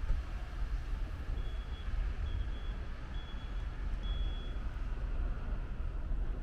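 Four short, high electronic beeps, evenly spaced about a second apart, over a steady low rumble of street noise and wind on the microphone.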